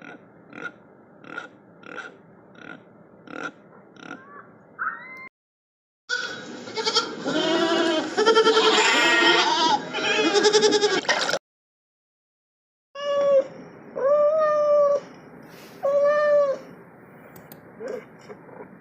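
Animal calls in three separate bursts. First comes a run of about eight short, evenly spaced calls. Then a loud chorus of many overlapping bleats. Last come four separate drawn-out bleats, each about a second long and arching in pitch.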